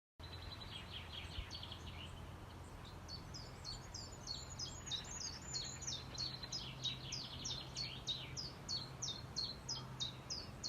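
A songbird calling in a long, rapid series of short, high, downward-sweeping chirps, about three a second, which grow stronger a few seconds in. A low steady hum runs underneath.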